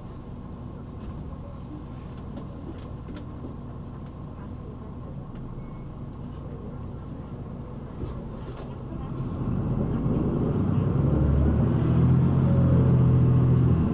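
City bus engine heard from inside the cabin, running low and steady with a few light rattles. About nine seconds in it grows clearly louder, as under acceleration.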